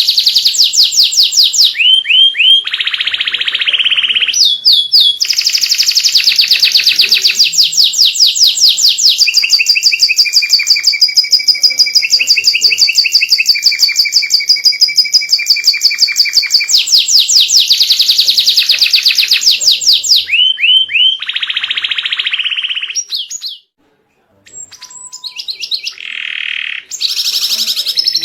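White canary in full song: long rolling trills of very fast repeated high notes, phrase after phrase, with a break of about a second about three-quarters of the way through.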